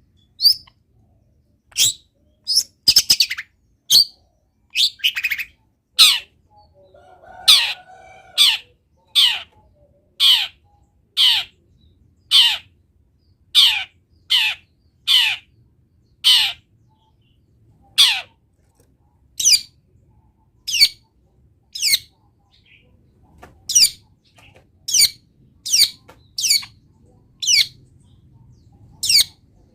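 Long-tailed shrike (cendet) calling: a long series of short, harsh notes, each sweeping steeply down in pitch, repeated about once a second, with a few quicker clusters in the first few seconds.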